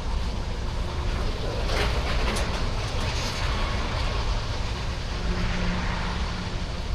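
Freight train rolling past: steady noise of steel wheels on rail, with a few sharp clicks about two seconds in.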